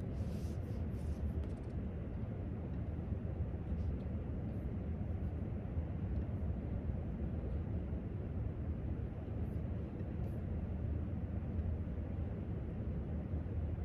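Steady low rumble of library room tone, with a few faint light clicks: a quick cluster near the start and a few scattered ones later.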